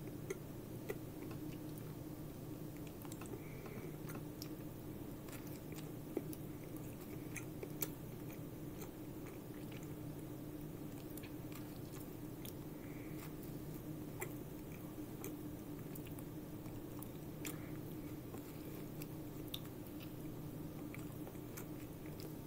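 A person chewing and biting into a hamburger, with scattered small wet mouth clicks over a steady low hum.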